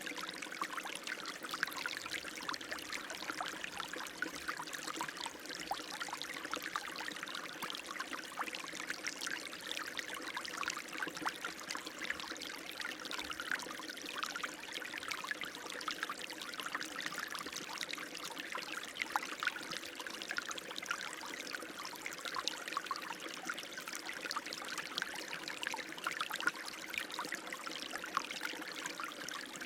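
Running water flowing steadily: an even, fine splashing with no deep rumble underneath.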